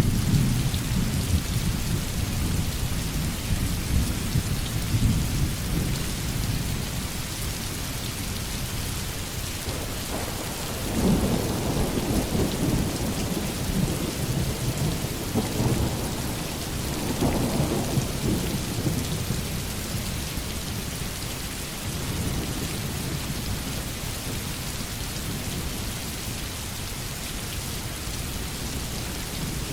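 Heavy rain falling steadily with low rolling thunder, the rumble swelling for several seconds about a third of the way in and then fading.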